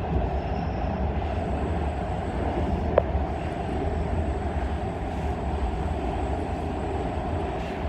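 Train running, heard from on board: a steady low rumble with a single sharp click about three seconds in.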